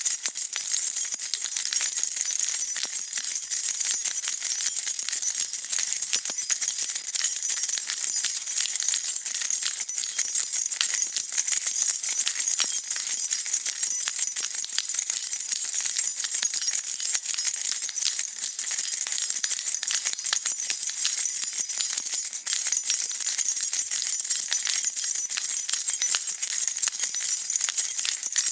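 A bunch of metal keys jingled and shaken continuously, a dense run of bright clinks with no pauses.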